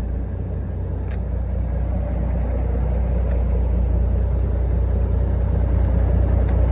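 1995 Mack CH613 heavy-haul truck's diesel engine idling with a steady low rumble that grows gradually louder.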